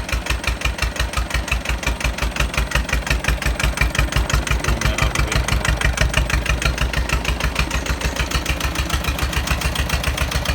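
The engine of an 18 hp Jiangxi 4x4 tractor (JT engine) is idling in an even chug of about seven beats a second. It was freshly started after several failed tries and is still warming up.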